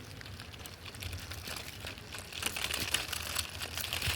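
Light, rapid clicking and rattling from a 1:32 diecast toy Willys Jeep being handled and rolled on a surface, starting about two seconds in.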